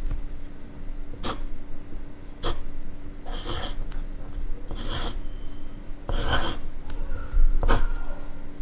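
Pencil writing on paper, close up: about six separate scratchy strokes, two of them longer, each about half a second.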